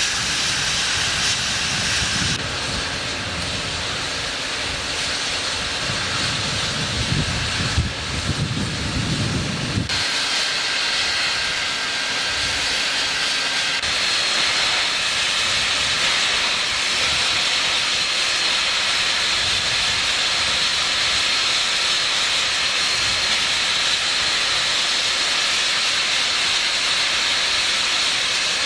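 Steam hissing steadily from Union Pacific 3985, a Challenger-type steam locomotive. A low rumble sits underneath for the first ten seconds and stops abruptly.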